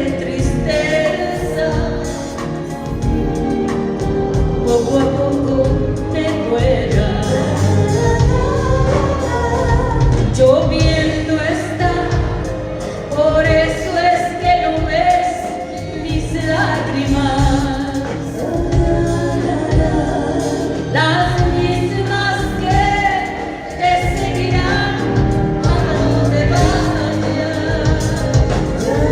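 A live band playing a ballad with a steady bass beat, with singing voices over it.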